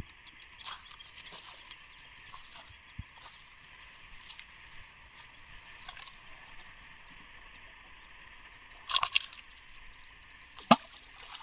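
A bird calling three times, each call a quick run of four or five high chirps. About nine seconds in there is a short scuffling burst, and near the end one sharp thump, the loudest sound here.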